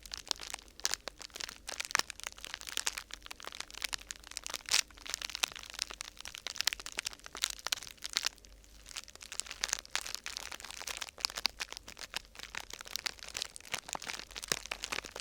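Dense, irregular crinkling and crackling of a thin sheet material being handled and crumpled, easing briefly about two-thirds of the way through.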